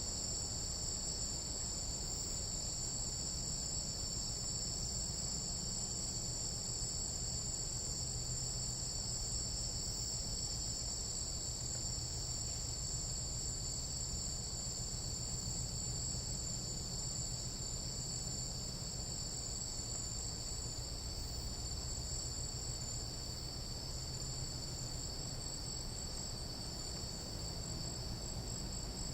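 Steady chorus of tropical jungle night insects: continuous high-pitched trilling at several pitches at once, unbroken throughout, over a low steady rumble.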